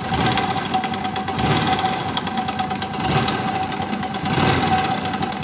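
Honda Biz 100's single-cylinder four-stroke engine running with a loose, rattling knock inside the engine that grows as it is revved up about three times. This is typical of a slack cam chain whose tensioner spring has weakened.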